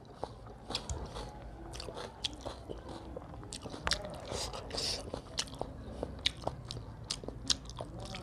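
Close-up mouth sounds of a person eating rice and curry by hand: chewing with many short, irregular wet smacks and clicks.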